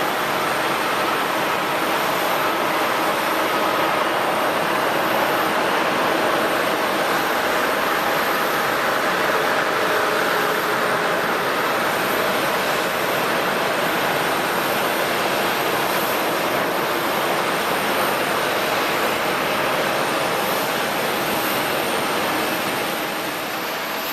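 Jet airliner engines running: a steady, unbroken noise with a few faint steady whining tones through it, swelling slightly towards the middle.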